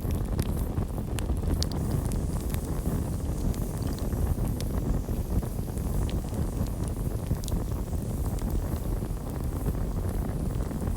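Campfire burning: frequent sharp crackles and pops over a steady low rumble of the flames.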